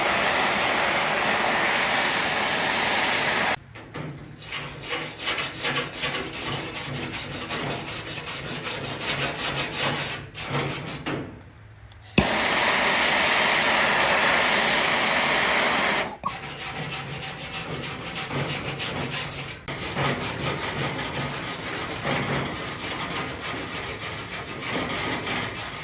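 Tools working the car body's sheet steel to cut out rust: two spells of steady loud running, each a few seconds long, alternating with long stretches of rapid rhythmic rasping, with a short pause in the middle.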